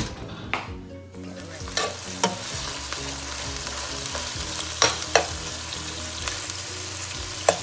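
Chicken pieces sizzling in hot oil with chopped garlic and onion in a frying pan, starting about a second and a half in and then running steadily. A metal spoon stirring the chicken clicks and scrapes against the pan several times.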